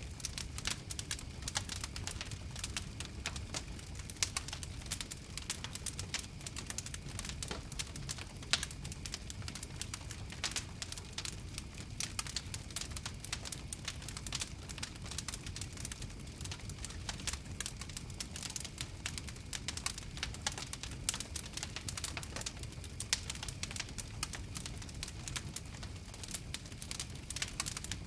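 Wood fire crackling: dense, irregular snaps and pops over a low, steady rumble of flames.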